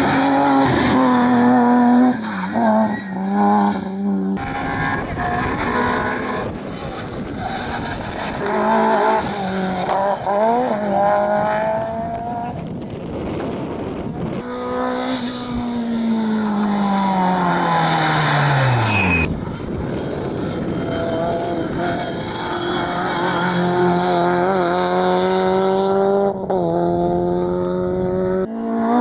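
Rally cars at full throttle, engines revving up and dropping back through quick gear changes across several short shots. Midway through, one car passes by, its engine pitch falling steadily as it goes past.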